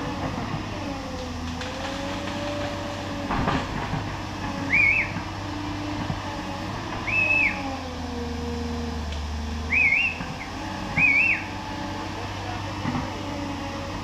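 A bird chirping four times, each a short high arched call, over a steady low hum that slowly wavers in pitch.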